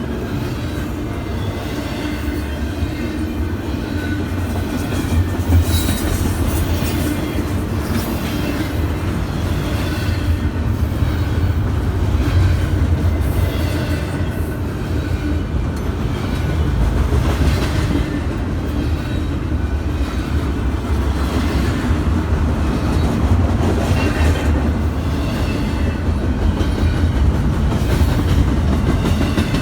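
Train rolling past with a steady, loud low rumble and the clickety-clack of wheels over the rails.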